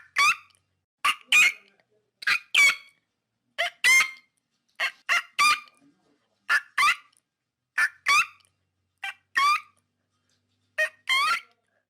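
Pelican calling: short calls with gliding pitch, in pairs or threes, repeated about every 1.3 seconds.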